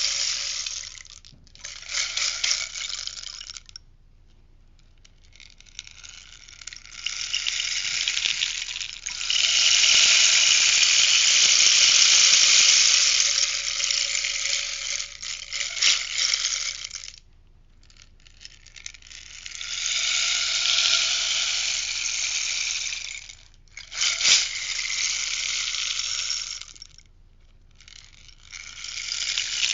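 Rainstick being tipped over and over, its beads trickling down inside in a steady hissing pour that swells and fades with each turn. Short pauses fall between turns, and the longest pour runs about eight seconds in the middle. A single sharp tap comes about two-thirds of the way through.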